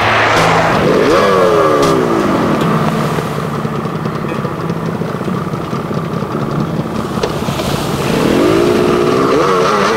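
Motorcycle engine revved once, rising sharply and falling back to a steady idle, then revved again near the end with the pitch wavering up and down.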